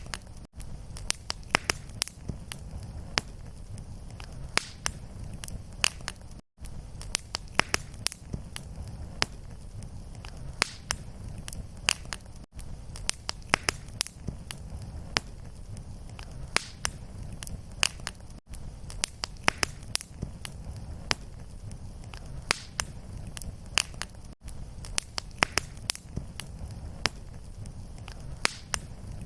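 Wood fire crackling in a fireplace: frequent sharp pops and snaps over a steady low rumble of flames, with a brief dropout in the sound about every six seconds.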